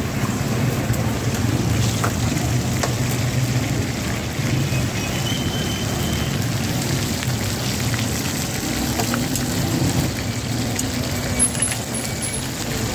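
Chicken and tomatoes sizzling in an iron karahi over a running gas burner: a steady low rumble under a light frying hiss, with a few sharp clinks of a metal spatula against the pan.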